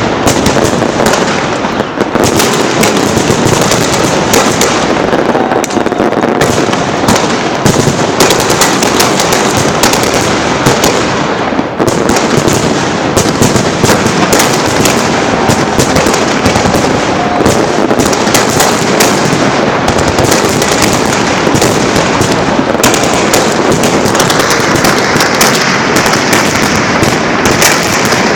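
Fireworks salute fired from salute launchers: a dense, unbroken barrage of bangs and crackling, loud throughout.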